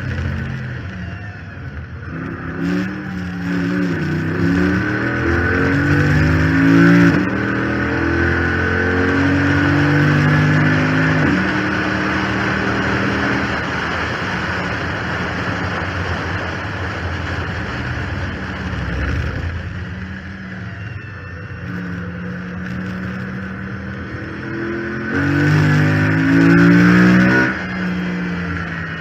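Chrysler 300 SRT8's 6.4-litre HEMI V8 under hard acceleration, heard from the hood scoop. It climbs in pitch and shifts up twice in the first half, eases off briefly past the middle, then pulls hard again near the end. A steady whine runs over it; the owner puts the Hellcat-like sound down to the failed power steering pump.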